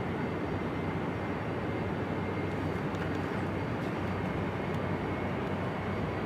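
Steady aircraft engine noise with a faint high whine running through it.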